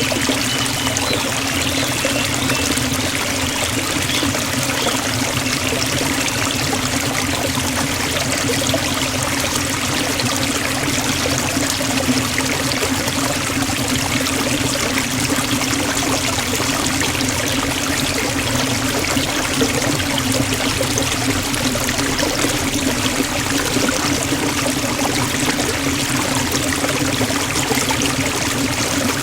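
Forest waterfall: water falling and rushing steadily, a constant even roar with no breaks.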